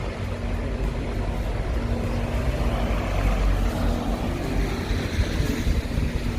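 City street traffic: vehicles running past with a steady low rumble and a constant engine hum.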